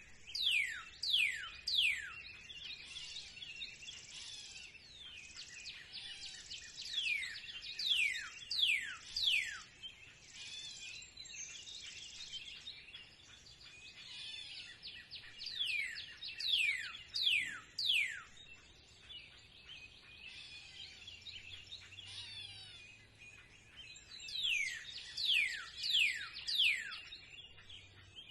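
Spring birdsong: a bird sings a short phrase of three to five quick downward-sliding whistles, repeating it about every eight seconds. Fainter chirping from other birds runs underneath.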